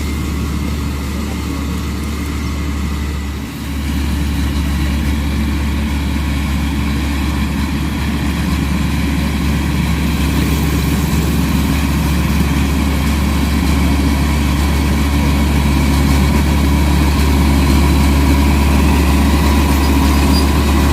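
Heavy road-construction machine's diesel engine running steadily with a deep hum. It dips briefly about three and a half seconds in and grows slowly louder towards the end.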